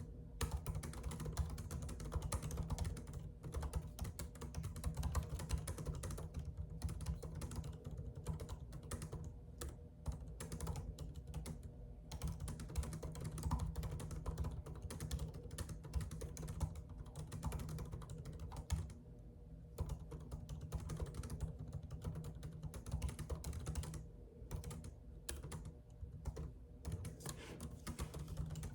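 Continuous typing on a computer keyboard: a fast, irregular run of key clicks with a few brief pauses, over a steady low hum.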